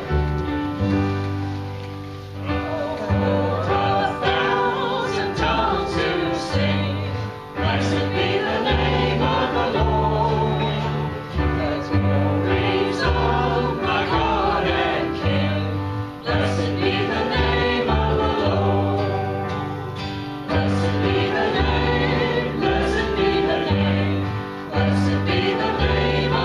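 A congregation singing a hymn together, with piano accompaniment.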